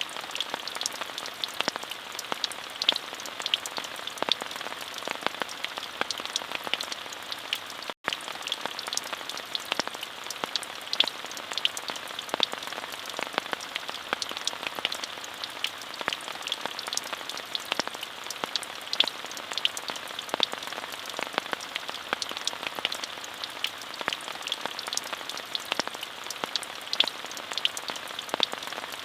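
Steady rain falling: a dense, even hiss of rain with many sharp individual drop taps through it. A split-second dropout in the sound comes about eight seconds in.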